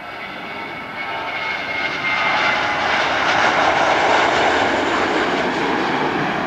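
Airbus A320 jet airliner passing close by: engine roar with a high whine, swelling to its loudest about three to four seconds in, then easing slightly.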